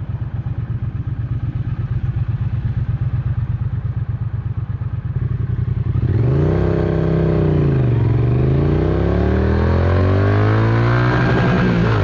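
Triumph Speed Twin 900's parallel-twin engine under way, running at a steady pulse at first. About halfway through it gets louder, and its note drops, then climbs again as the bike slows and accelerates.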